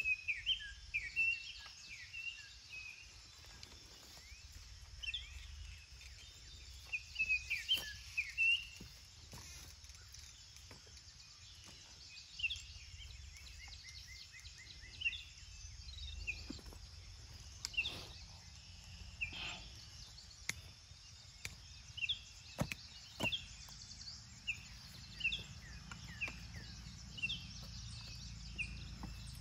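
Wild birds chirping in short, repeated calls over a steady high hiss, with a few faint clicks and knocks in the middle.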